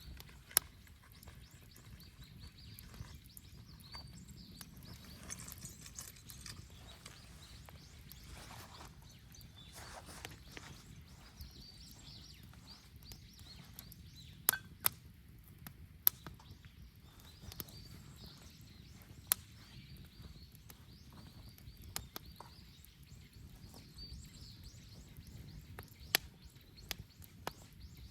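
Wood bonfire crackling: a low, steady rumble of burning with sharp pops from the burning wood at irregular intervals, several of them loud.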